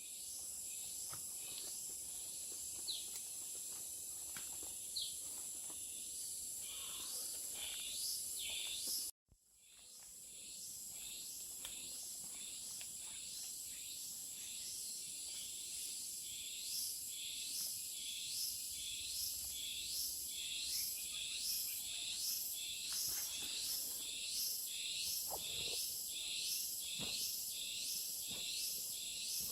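Tropical forest ambience: a steady high-pitched insect chorus. From about halfway through, an insect call pulsing about twice a second builds over it. A few short bird chirps come early, and the sound briefly cuts out about nine seconds in.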